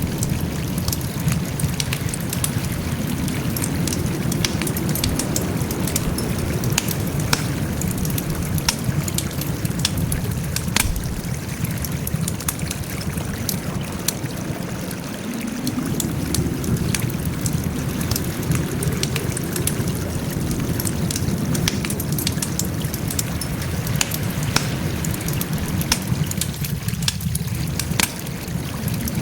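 Wood fire crackling: frequent sharp pops and snaps over a steady low rush.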